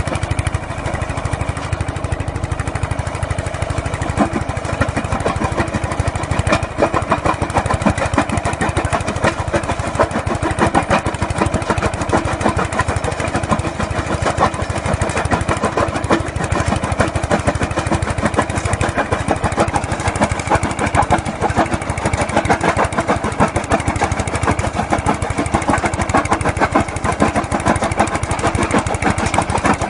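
Key-start diesel engine of a small mobile jaw crusher running steadily with a fast, even beat.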